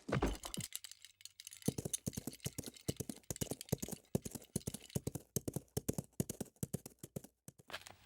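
Footsteps on a hard surface: a quick run of sharp steps, several a second, starting after a short pause near the beginning and stopping briefly just before the end.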